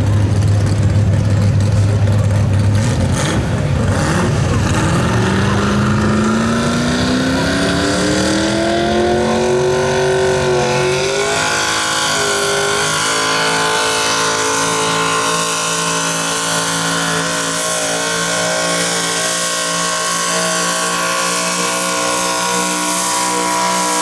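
Small-block V8 of a modified 4x4 pulling truck making a sled pull: a low steady note for the first few seconds, then the revs climb steadily for several seconds and the engine holds at high rpm under full load.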